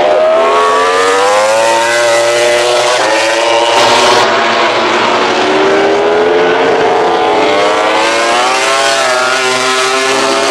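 Several MotoGP racing motorcycle engines revving at once, their pitches climbing and dropping repeatedly, with a brief hiss about four seconds in.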